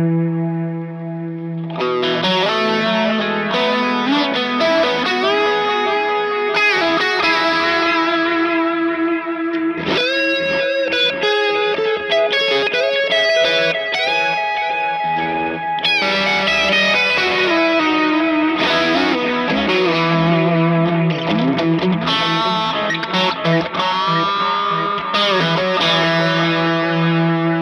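Electric guitar (a Fender Stratocaster) played through a delay and reverb pedal into a Vox AC30 amp, with some overdrive. A chord rings out, then picked melodic phrases with note bends and slides come in about two seconds in, their notes trailing off in repeats and reverb. Near the end it settles back onto a long ringing chord.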